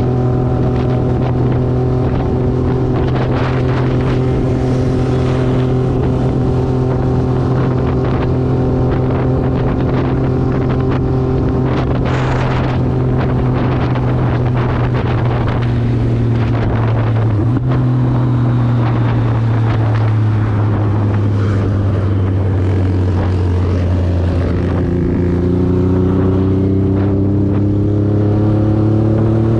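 Motorcycle engine running in a steady drone. A little past halfway its pitch drops, then climbs again over the last few seconds as it picks up speed.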